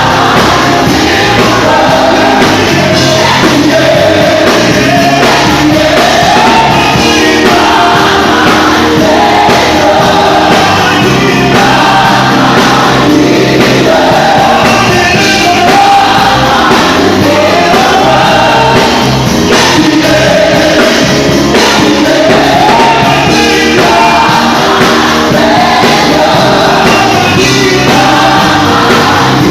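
Live gospel worship music: several voices singing together with a choir-like sound over instrumental backing, loud and steady, one sung phrase repeating every couple of seconds.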